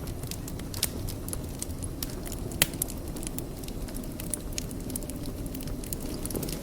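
Wood fire in a fireplace crackling: a steady low rumble under scattered sharp snaps and pops, the loudest pop about two and a half seconds in.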